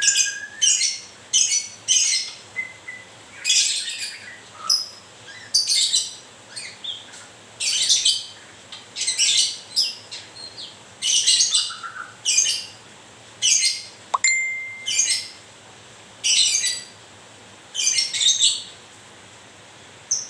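White-rumped shama (murai batu), a young bird in molt, giving short, high chirping calls over and over, about one a second. About 14 seconds in there is a sharp click and a brief steady whistle.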